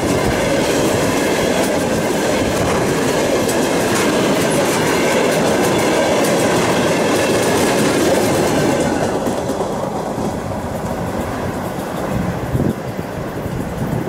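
Freight train of railway tank cars rolling past close by, its wheels clattering over the rail joints. The sound eases off about two-thirds of the way through as the last wagons pass and draw away, with a few sharper knocks near the end.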